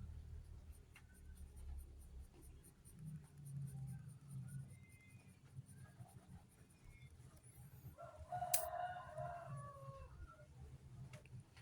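A rooster crowing once, about eight seconds in, over a faint low hum.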